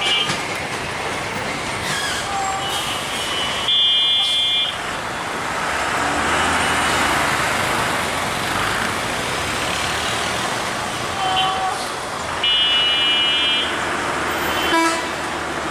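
Passenger train coaches rolling away on the track with a steady rumble of wheels. Two short high-pitched horn blasts sound, about 4 seconds in and again near 12.5 seconds.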